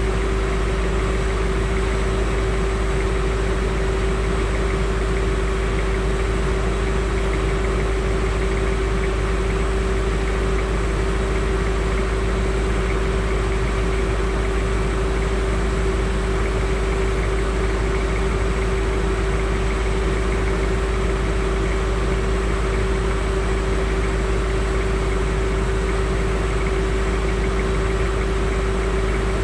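Land Rover Discovery 2's engine idling steadily with a constant hum, heard from just under the front bumper.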